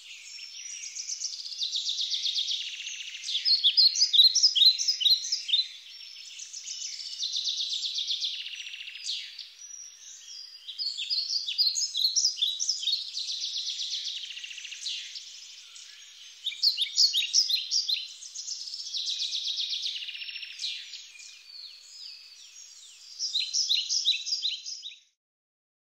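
Songbirds singing: repeated high chirps and short buzzy trills in phrases every few seconds, stopping abruptly near the end.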